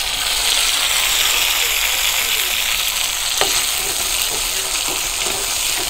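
Chopped tomatoes sizzling steadily in hot oil with cumin seeds in a kadhai for a tempering. About halfway through a spatula knocks once against the pan, then scrapes as the tomatoes are stirred.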